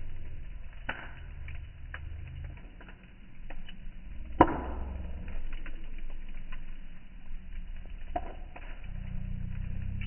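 Campfire crackling: scattered sharp snaps, with one loud pop about four and a half seconds in, over a low rumble. Near the end a low hum rises in pitch.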